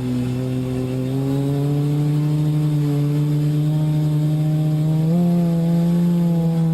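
Multirotor drone's motors and propellers droning steadily, the pitch slowly rising and stepping up about five seconds in as the throttle changes.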